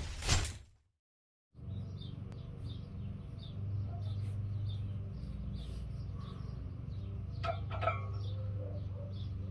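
A small bird chirping over and over, two or three short high chirps a second, over a steady low hum. It opens on the dying end of a glass-shattering sound effect, followed by a second of silence. There is one brief, slightly louder sound about seven and a half seconds in.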